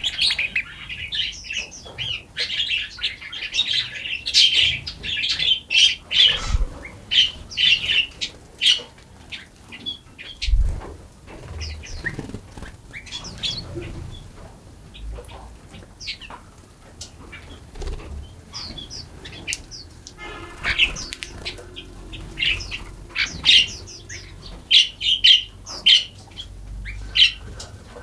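Forest songbirds chirping and twittering in many quick, high calls. The calls are busiest at the start and again from about twenty seconds in, thinner in between. A few soft low thumps come at about six and ten seconds in.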